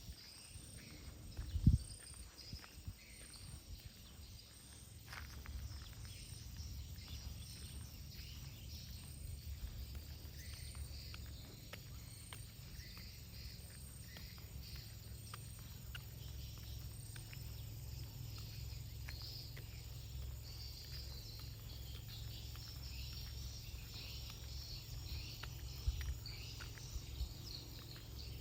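Outdoor ambience on a walk: a steady low wind rumble on the microphone under faint insects chirping high up, with a single sharp knock about two seconds in.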